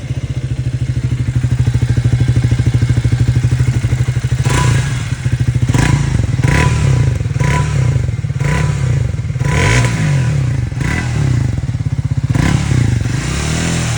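Triumph Speed 400 (350 cc version) engine and exhaust idling steadily, then revved in a series of short throttle blips, roughly one a second, from about four and a half seconds in.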